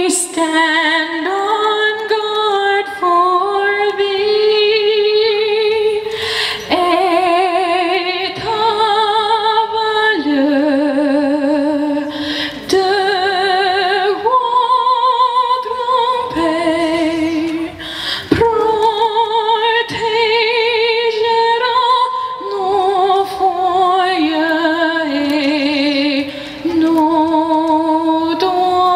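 A woman singing, holding long notes with vibrato and moving from note to note every second or two.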